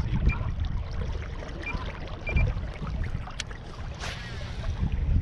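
Wind buffeting the action-camera microphone as a fishing kayak moves on the water, with water lapping and trickling against the hull. A few short, faint high chirps, and a brief swish about four seconds in.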